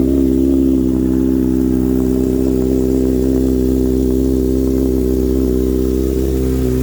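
Kawasaki ZX-6R inline-four engine idling steadily through an aftermarket Racefit exhaust, as the bike sits after a cold start.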